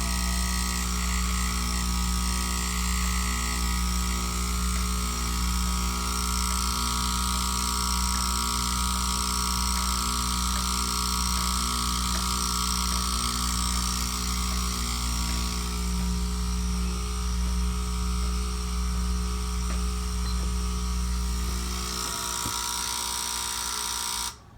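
TreadDesk treadmill desk running with a loud, steady electrical buzz over a deep hum, which the owner believes comes from a defective voltage adapter near the circuit board rather than from the motor. The deep hum fades about twenty seconds in, and the sound cuts off abruptly near the end.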